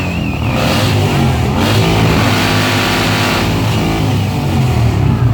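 Car engine revving through its exhaust, the pitch rising and falling as the throttle is blipped.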